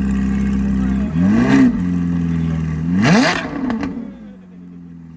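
A parked supercar's engine idling, blipped twice with the accelerator pedal: two short revs that rise and fall, about a second in and about three seconds in. After that the engine is quieter.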